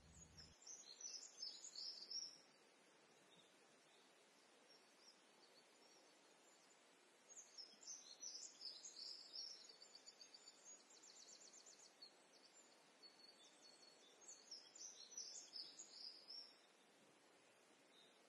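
Faint, high-pitched bird chirps in three short spells, with a quick even trill in the middle spell, over a quiet background.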